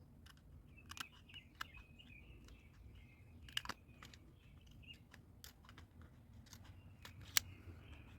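Scattered sharp clicks and light taps, like small metal parts and hand tools being handled, the loudest a single click near the end, over faint high chirping and a low steady hum.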